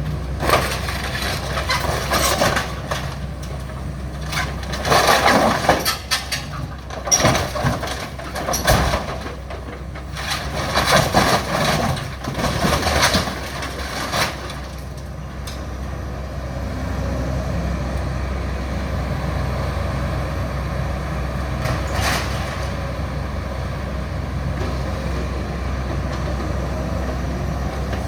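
Caterpillar excavator engine running under load during building demolition, with irregular crashing, crunching and scraping of debris and rubble for about the first half. After that the engine runs on steadily, with one sharp knock later on.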